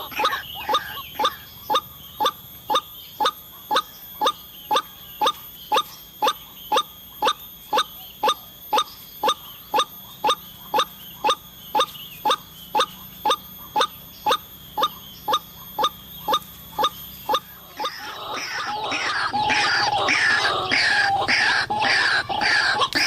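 White-breasted waterhen (ruak-ruak) calling: a monotonous series of short, sharp calls repeated about twice a second. Near the end it breaks into a louder, denser jumble of overlapping calls.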